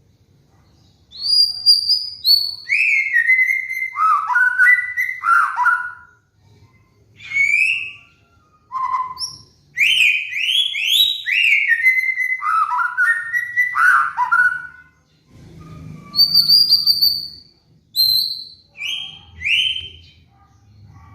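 White-rumped shama (murai batu) singing: loud, clear whistled phrases of quickly gliding notes, delivered in several bursts with short pauses between them.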